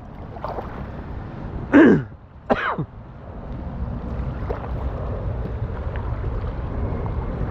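A man's voice makes two short sounds, each falling in pitch, about two seconds in, over a steady rushing of river water and wind on the microphone that grows louder toward the end.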